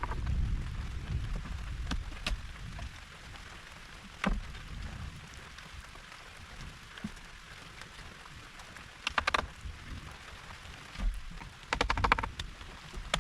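Steady rain falling, with a few sharp isolated taps or knocks and two brief bursts of rapid clicking, one about two-thirds through and one near the end.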